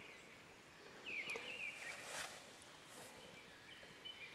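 Faint birdsong over quiet outdoor ambience: one short warbling phrase of quick, high, up-and-down notes about a second in.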